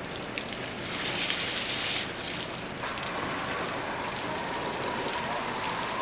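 Water from a fire hose spraying and splashing on the burnt food truck, a steady rain-like hiss that grows louder for about a second, one second in. A steady thin tone comes in about three seconds in.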